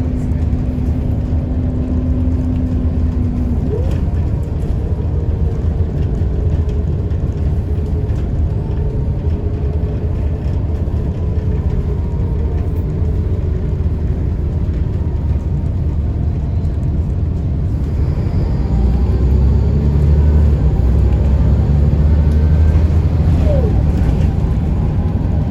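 Scania L94UB bus's DSC9 nine-litre six-cylinder diesel engine running with the bus under way: a steady low drone that grows louder about 18 seconds in and eases near the end.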